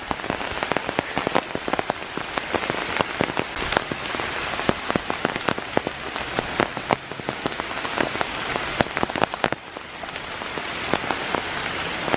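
Heavy rain falling through the trees and hitting the leaves: a dense, steady hiss with many sharp individual drop impacts.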